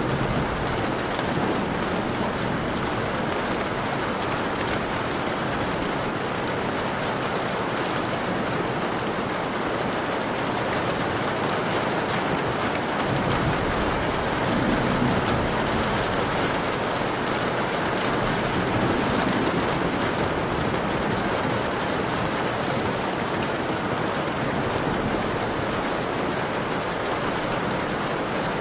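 Steady rain falling on a window: an even hiss with scattered drop ticks, swelling slightly about halfway through.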